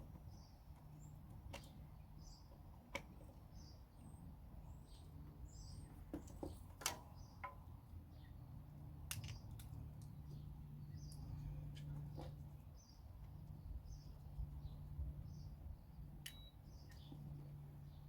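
Birds chirping faintly, with a few sharp clicks and knocks, the loudest about seven seconds in, over a low steady hum.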